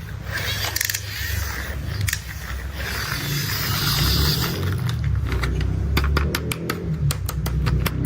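Toy construction-vehicle play: a low engine-like rumble with passing hiss, then a quick run of sharp clicks and clatters over the last three seconds, like small hard pieces rattling.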